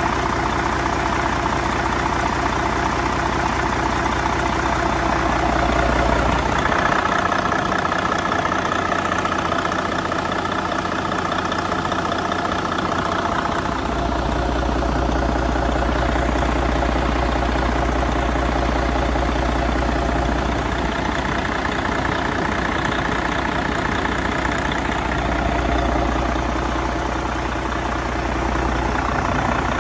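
2014 Detroit Diesel DD13 12.8-litre inline-six diesel engine running at idle. Its tone shifts for a few seconds at a time, with the low hum dropping back while a higher ringing comes forward.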